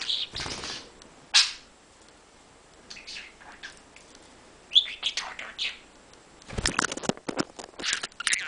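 Pet budgerigar chattering: scattered bursts of quick, high, warbling chirps with short pauses between them, plus two brief noisy bursts, one near the start and one about two-thirds through.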